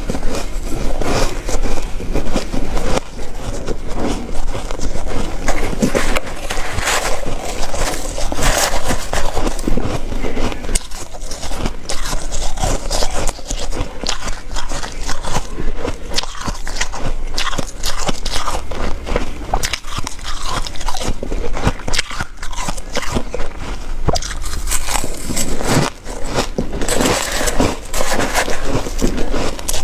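A person biting and chewing ice close to the microphone: dense, continuous crunching and crackling.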